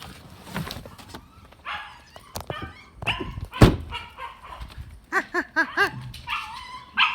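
Dog whining and yipping in excitement at its owner's return, with a quick run of four short rising-and-falling cries about five seconds in. A single sharp knock or thump comes near the middle.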